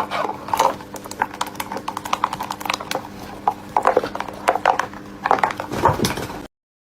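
Pet parrot chattering: a busy run of short squawks, chirps and clicks over a steady low hum, cutting off abruptly near the end.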